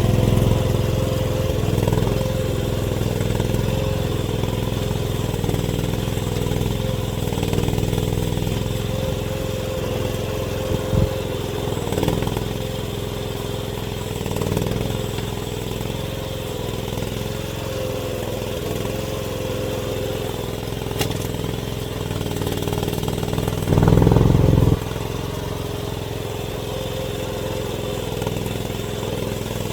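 AGT mini excavator's engine running steadily, its note wavering as the hydraulics take and release load. There is one sharp knock partway through, and later a louder low rumble lasting about a second.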